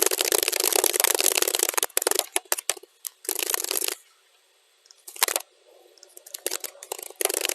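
Fast typing on a computer keyboard, played back at double speed: dense runs of key clicks, a break of about a second near the middle, then scattered keystrokes building back into fast typing near the end.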